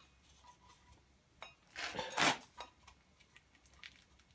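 Hand work on an engine during a timing-belt job: light metallic clicks and clinks, with one brief, louder scraping rustle about two seconds in.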